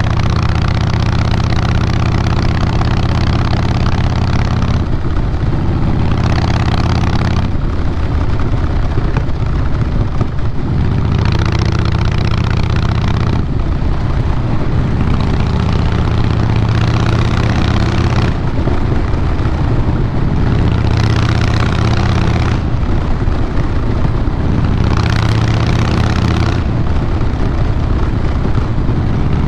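Harley-Davidson Fat Boy Lo's Twin Cam 96B V-twin running through Vance & Hines Big Radius 2-into-2 pipes, the exhaust note changing every few seconds as the throttle is opened and closed.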